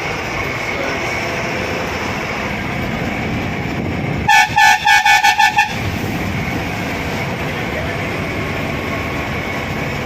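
Bus horn sounding in a rapid string of about seven short toots, about four seconds in, over the steady running of the bus's engine and road noise.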